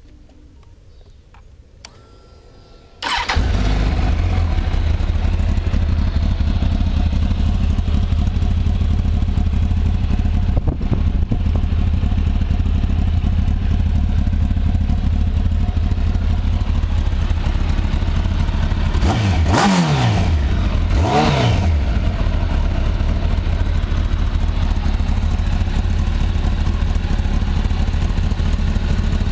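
A 2008 Kawasaki ZX-10R's inline-four engine on its stock exhaust starts about three seconds in and settles into a steady idle. About two-thirds of the way through, two quick throttle blips, a second and a half apart, each rise and fall in pitch before it drops back to idle.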